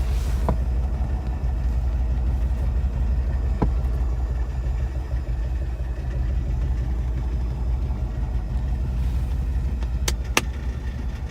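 1971 Porsche 914's air-cooled engine idling steadily while warming up after a cold start. A few sharp clicks break in, two close together near the end.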